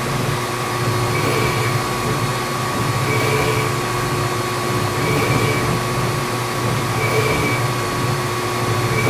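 Metal lathe running while taking a cut along a fiberglass tube: a steady machine hum with a faint swish that comes round about every two seconds.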